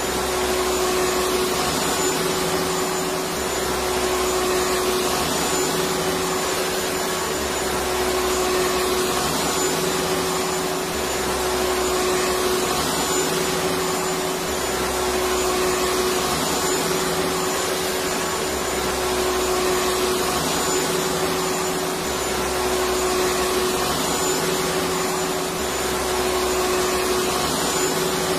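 Electric vacuum cleaner running steadily, a continuous motor noise with a steady hum and a thin high whine, and a low throb that comes and goes about every two seconds.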